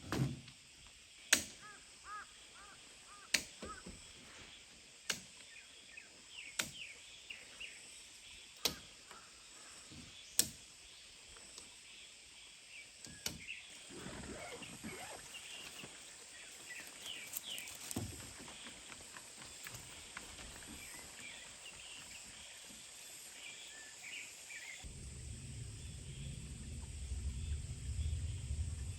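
Six sharp knocks, roughly every two seconds, over small birds chirping in woodland. A low rumble comes in near the end.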